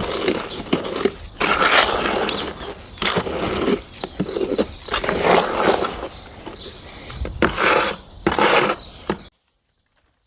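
Wet, runny cement mix being stirred and scraped in a bucket in irregular strokes. It cuts off abruptly near the end.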